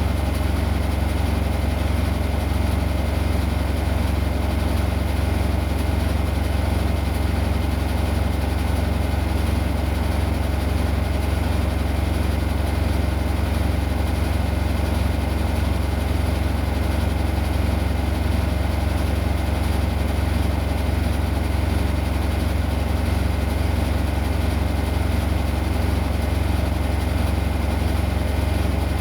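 Washing machine running with a steady low motor hum and a few steady tones above it, even and unchanging.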